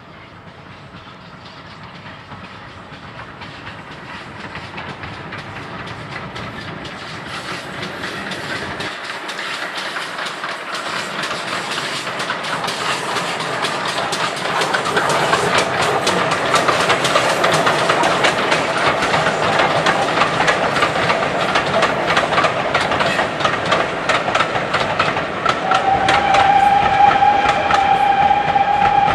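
A train approaches, growing steadily louder, its wheels clicking rapidly over the rail joints. About 26 seconds in it sounds one long, steady warning note that carries on to the end.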